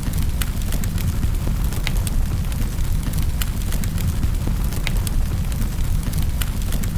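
Wood fire burning in a fireplace: a steady low rumble of flames with scattered sharp crackles and pops, a few each second.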